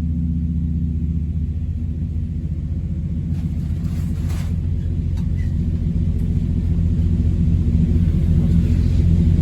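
Mopar 400 big-block V8 running on an engine dyno through a Holley Street Dominator intake, a steady deep engine sound that gradually grows louder, as during a dyno pull.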